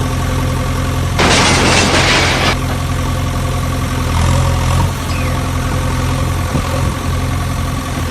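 Engine idling steadily, with a loud burst of rushing noise about a second in that lasts about a second.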